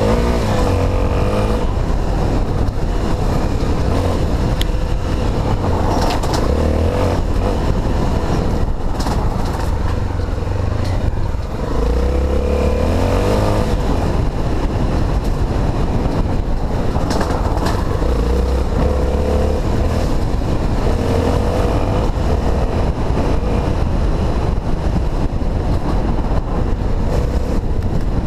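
Honda XR250 Tornado's single-cylinder four-stroke engine running under load, its revs rising and falling, with a few sharp knocks along the way.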